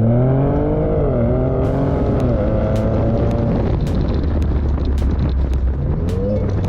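Ford Fusion Sport's 2.7-litre twin-turbo V6 revving through an X-pipe and MagnaFlow mufflers: held high, dipping and rising again, then dropping back to a low idle about halfway through, with one more short blip near the end. Sharp clicks sound over the second half.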